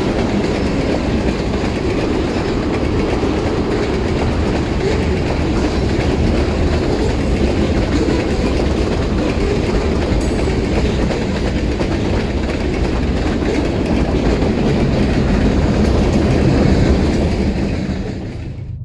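Freight train cars (tank cars and covered hoppers) rolling past close by: a loud, steady rolling noise of steel wheels on the rails. It cuts off sharply near the end.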